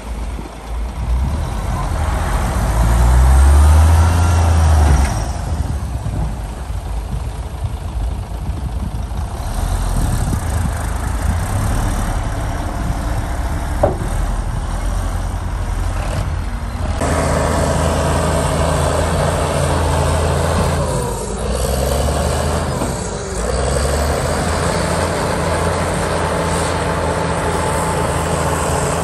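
Heavy diesel engines of earthmoving machinery, a bulldozer and dump trucks, running under load as a deep continuous drone. It swells loudest a few seconds in, and there is a single sharp tick about halfway through.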